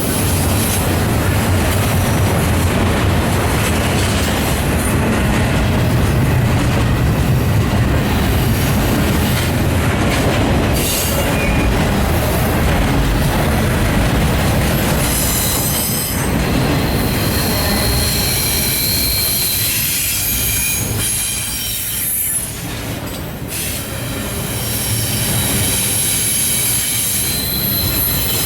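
Norfolk Southern intermodal train rolling past: a steady rumble of the cars on the rails, with high-pitched wheel squeal coming and going, strongest past the middle and near the end.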